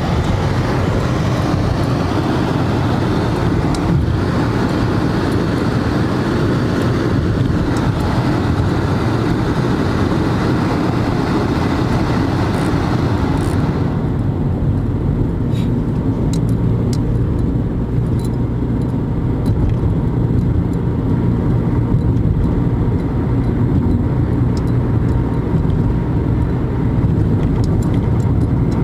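Car driving, heard from inside the cabin: a steady low road-and-engine rumble with a higher hiss of wind and tyres that fades about halfway through.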